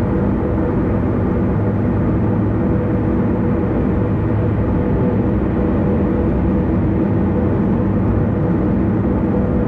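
Steady road noise of a car cruising on an expressway: continuous tyre and engine noise with a steady low hum and no distinct events.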